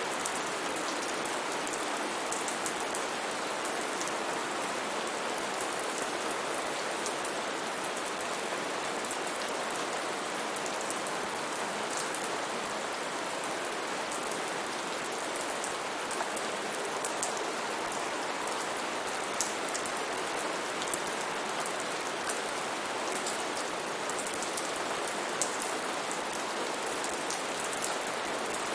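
Steady rainfall on foliage in a rainforest: an even hiss of rain with scattered close drops ticking over it.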